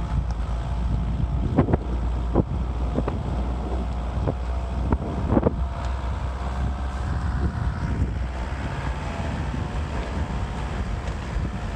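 Motocross bike running, heavy wind buffeting the microphone, with a dense low rumble and several sharp knocks through the first half.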